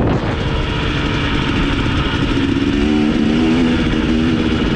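Dirt bike engine running, its pitch rising a little partway through.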